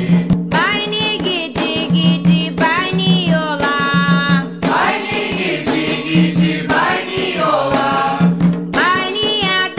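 Candomblé chant to Xangô: voices singing a sacred song over hand-drum percussion, with steady repeated drum strokes under the melody.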